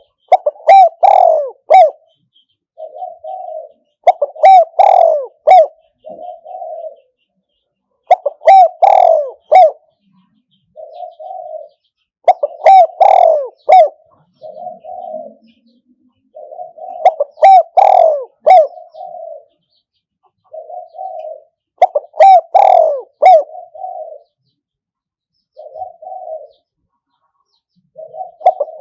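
A decoy spotted dove cooing in repeated phrases about every four seconds, six times. Each phrase is a loud coo with softer notes before and after it. This is the territorial call used to lure wild spotted doves to a trap.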